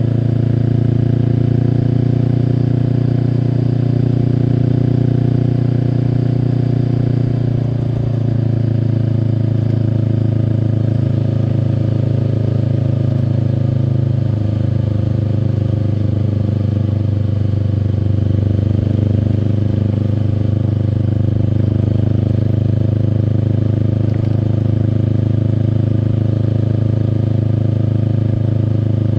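2024 Kawasaki Eliminator SE's parallel-twin engine through a BEAMS aftermarket full exhaust system, riding along at fairly steady revs. The engine note shifts slightly about eight seconds in.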